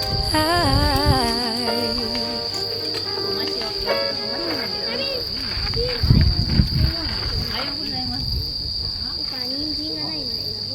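Insects trilling steadily in one high, unbroken tone, cricket-like. The last notes of a sung pop song fade out over the first two seconds, and there is a short low rumble about six seconds in.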